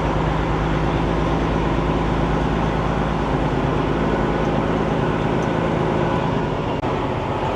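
Semi truck's diesel engine running steadily, heard from inside the cab as the truck moves slowly, a low even drone.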